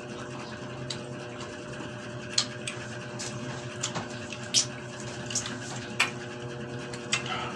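Close-up chewing and lip-smacking of juicy pineapple chunks: a string of short, sharp wet smacks every second or so, over a steady low hum.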